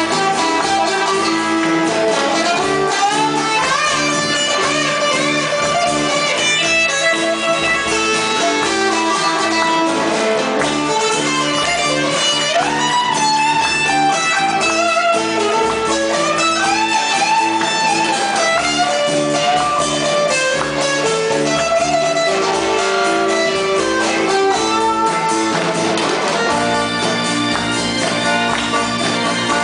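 A live band playing an instrumental passage: a guitar carries a melody with bending, gliding notes over steady accompaniment.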